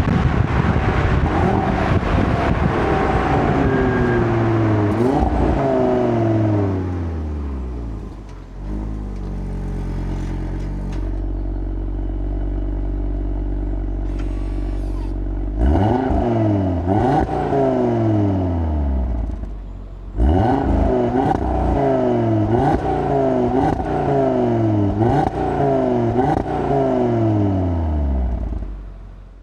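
Audi RS3's turbocharged 2.5-litre five-cylinder engine driven hard, its revs climbing and dropping over and over as it changes gear. For several seconds in the middle it settles to a steadier, lower note, then pulls hard through the gears again before fading near the end.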